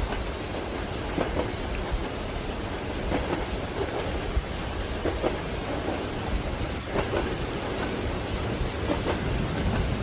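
Steady rain over a low rumble, with train wheels clacking over rail joints in faint pairs about every two seconds.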